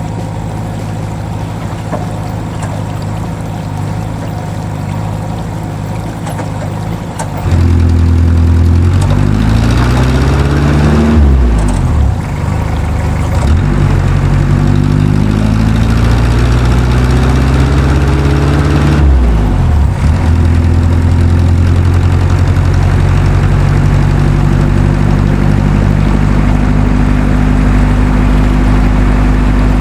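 Engine running steadily that gets louder about seven seconds in, then revs up and down twice before settling to a steady run.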